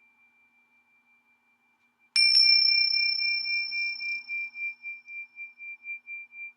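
A high-pitched metal sound-healing instrument struck once about two seconds in, ringing with one clear tone and a fainter higher overtone that slowly fades with a wavering pulse. Before the strike, the faint tail of an earlier ring at the same pitch dies away.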